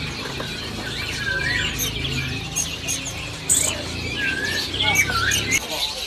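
Many caged songbirds chirping and calling together: scattered short chirps and quick up-and-down whistles overlapping from several birds, over a steady low hum of background noise.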